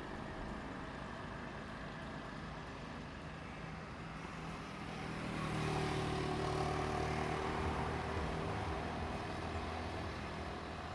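Diesel train engine running, growing louder about halfway through and easing off near the end.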